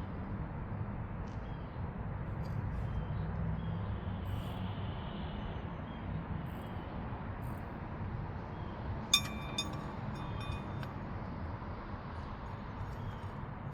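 A sharp ringing clink of a metal tool striking metal about nine seconds in, followed by a few lighter clicks, over a steady low rumble.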